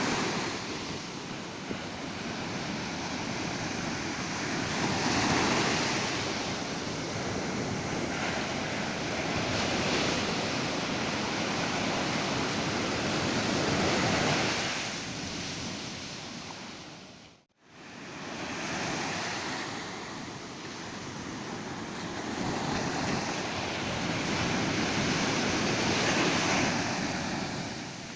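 Ocean surf: waves breaking and washing up the beach, the rush of water swelling and ebbing every few seconds. About two-thirds of the way through the sound fades out almost to nothing and comes back within a second.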